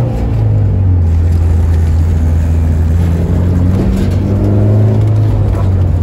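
Honda S2000 CR's 2.2-litre inline-four and single-exit Greddy exhaust running steadily as the car drives, heard from inside the cabin.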